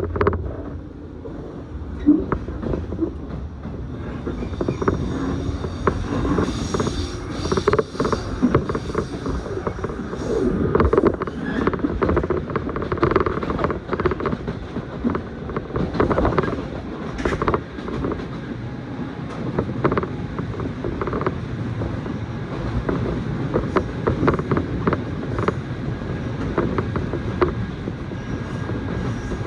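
Passenger train running, heard from inside the carriage: a steady low rumble, with frequent irregular creaks and knocks from the car body and wheels over the track.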